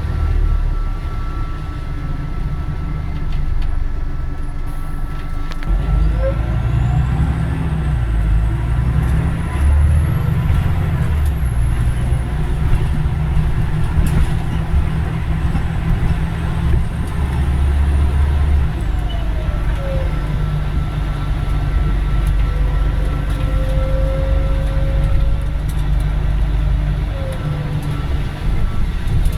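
Scania OmniDekka double-decker bus heard from on board: the diesel engine pulls under load, with a gearbox whine that rises and falls in pitch as the bus speeds up and slows. The engine's rumble grows heavier about six seconds in.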